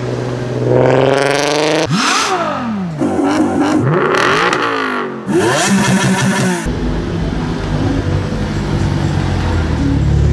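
Volkswagen Golf engines revving hard, the pitch climbing and dropping sharply in several short spliced pieces. About two-thirds of the way through it cuts to a steadier, lower engine drone.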